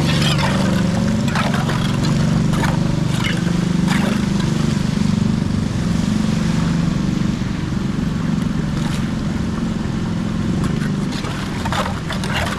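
A motor running steadily with a low, even drone, with a few short sharp knocks or splashes over it.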